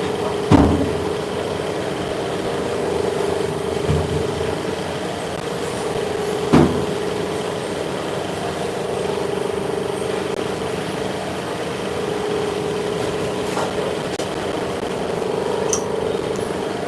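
Workshop machinery running with a steady hum, with a sharp knock about half a second in and another about six and a half seconds in.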